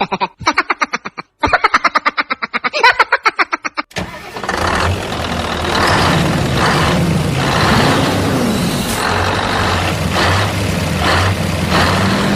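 A vehicle engine cranking in rapid, even pulses for about four seconds, then catching and running steadily with a regular swell.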